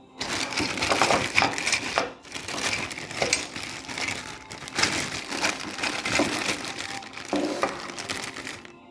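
Loud, irregular crinkling and rustling with many sharp crackles, like material being crumpled or handled, starting suddenly and stopping shortly before the end.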